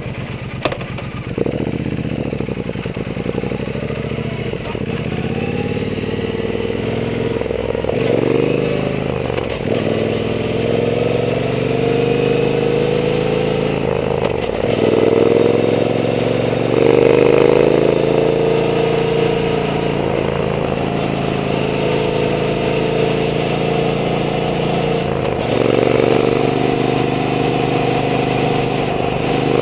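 Triumph Bonneville T120's twin-cylinder engine breathing through a Zard aftermarket exhaust while riding. Its pitch rises and drops back at each gear change, four times in the first half. It then runs fairly steadily before another shift and pull near the end.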